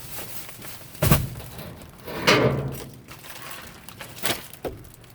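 Objects being handled in a metal dumpster: a sharp thud about a second in, a longer clattering crash a second later, then a lighter knock.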